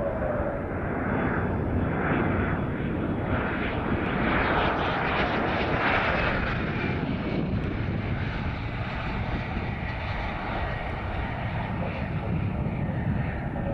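Aircraft engine noise from a plane passing: a steady rumble that swells to its loudest about five seconds in, then eases off, with a faint high whine over it.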